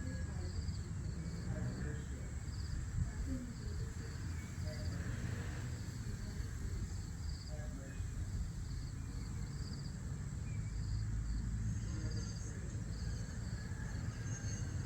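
Crickets chirping in short trills about twice a second over a steady high insect drone, with a constant low rumble underneath.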